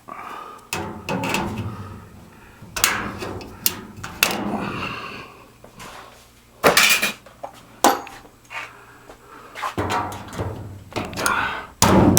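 Irregular knocks, bangs and scraping of sheet-metal ductwork being handled and fitted back into place, with several sharper metallic hits in between.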